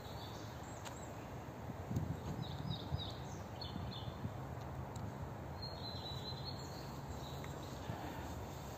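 Small birds chirping in short runs, about two seconds in and again around six seconds, over steady outdoor background noise.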